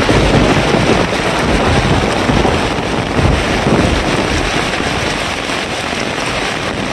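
Heavy rain pouring steadily, with a low gusty rumble that is strongest in the first few seconds.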